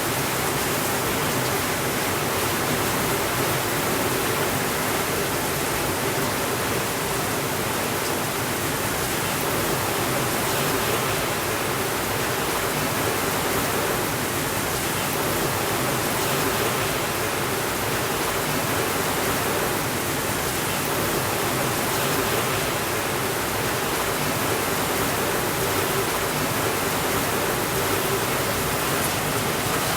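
Steady rainfall, a dense even hiss without thunder.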